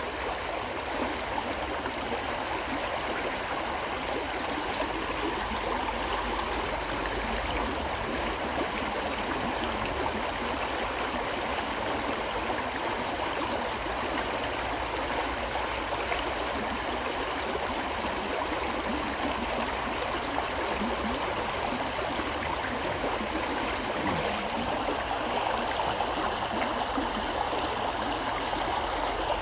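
River water flowing over stones in a steady, even rush with gurgling.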